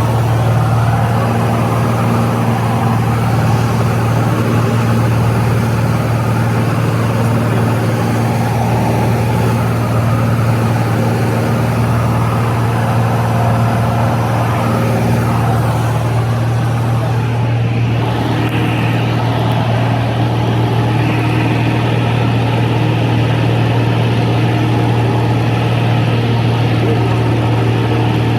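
Aircraft engines in flight heard from inside the cabin: a loud, steady drone with a strong low hum.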